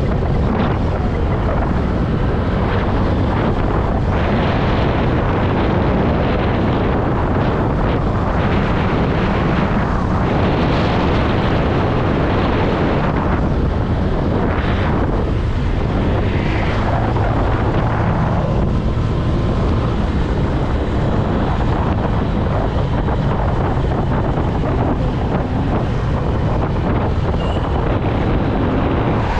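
Wind rushing over the microphone of a moving Honda Click 125i scooter, with the scooter's single-cylinder engine and road noise underneath. The rushing swells louder several times in the first half.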